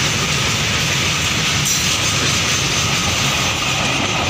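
Freight train of loaded open wagons rolling past, a steady, loud noise of wheels running on the rails.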